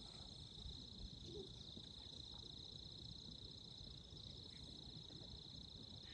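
Faint, steady high-pitched trilling of insects, with a rapid even pulse, over a low outdoor rumble.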